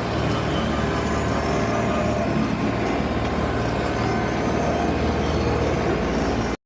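Tractor engine running steadily with a low, even pulse; the sound cuts off abruptly near the end.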